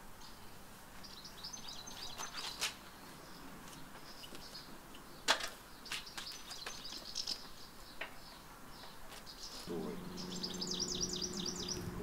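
Small birds chirping on and off, with a fast run of repeated notes near the end. A few sharp clicks stand out, and a steady low hum comes in about ten seconds in.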